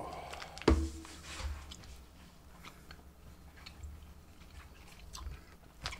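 Someone chewing soft gummy candies close to the microphone: quiet mouth sounds with scattered small clicks. Under a second in there is a sharper click, then a brief hummed "mm".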